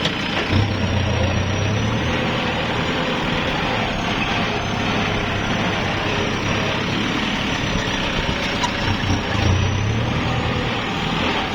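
Kubota tractor's diesel engine running steadily, with a low hum that swells and fades a few times.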